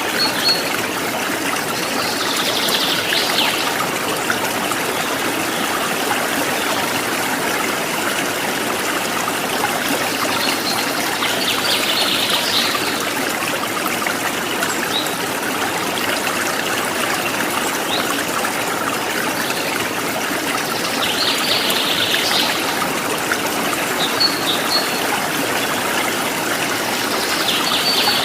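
A stream of running water flowing and trickling steadily, with short bird chirps breaking through about every eight to ten seconds.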